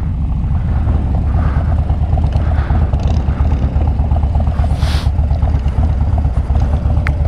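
Harley-Davidson Dyna Fat Bob's air-cooled V-twin engine running with a steady, loping low rumble as the bike rolls slowly at low speed. A brief rush of wind noise comes about five seconds in.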